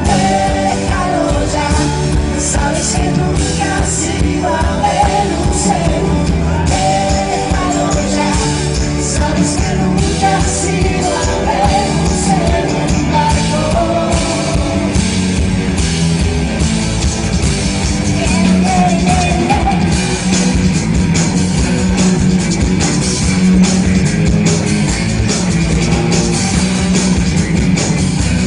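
Live pop-rock band performance with a singer's voice over drums, bass and guitar, recorded from the audience through a loud PA.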